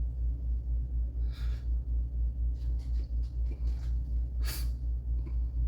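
A steady low hum with an even pulsing beat, with a few faint handling rustles about a second and a half in and again around three to four and a half seconds in.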